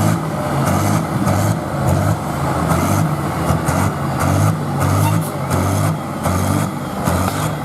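Large diesel engine running steadily, a low drone that holds its pitch.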